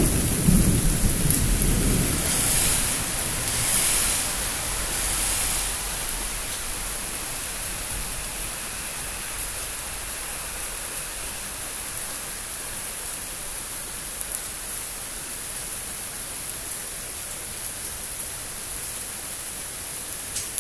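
A roll of thunder rumbling and dying away over the first few seconds, leaving the steady hiss of heavy rain.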